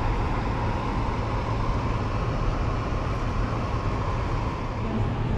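Steady rumble of a car driving slowly, heard from inside the cabin: engine and tyre noise with a faint steady hum above it.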